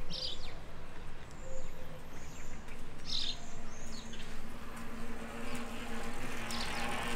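Small birds chirping in short scattered calls over outdoor ambience, with a faint steady hum underneath.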